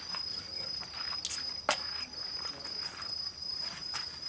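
A steady, high-pitched insect trill, cricket-like, runs without a break, while a wood campfire crackles with a few sharp pops, the loudest about a second and a half in.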